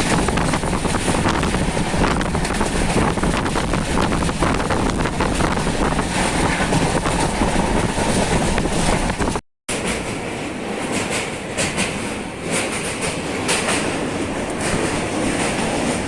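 Passenger train running along the track, its wheels clattering over the rail joints. About nine and a half seconds in the sound cuts out briefly. It then comes back a little quieter, with sharper clicks.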